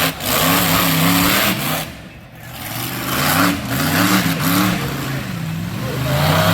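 Monster truck engine revving hard, its pitch swinging up and down over and over as the throttle is worked, dropping briefly about two seconds in.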